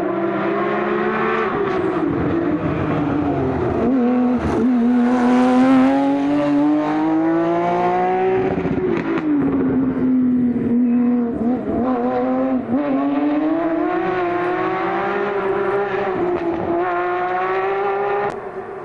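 Porsche 911 flat-six engine pulling hard, its pitch climbing and then dropping back sharply at gear changes, several times over.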